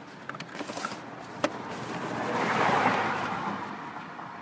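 A passing vehicle: a noisy rush that swells to a peak about two and a half seconds in and then fades away. A sharp click about a second and a half in.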